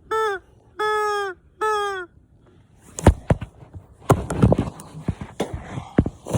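Three short honking calls, each held on one pitch and dropping at the end. From about three seconds in they give way to a run of sharp knocks and thumps with rustling.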